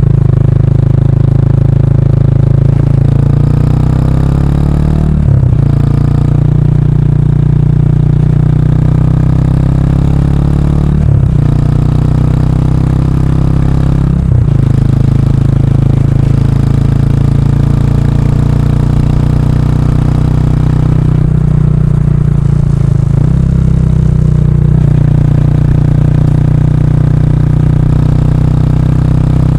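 Kawasaki Estrella's single-cylinder engine running loud through a de-baffled stock muffler under way. It pulls up through the gears: the pitch climbs steadily, then drops sharply at each of several shifts.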